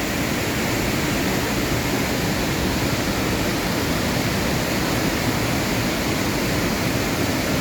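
Large waterfall thundering steadily: a constant, dense rush of falling water with no break.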